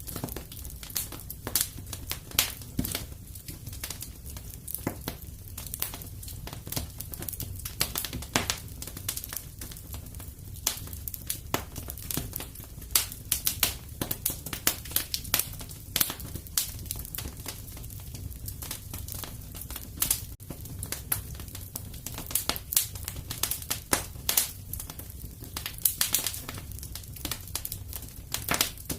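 Wood fire crackling and popping in a fireplace: dense irregular snaps over a steady low rumble of the burning logs.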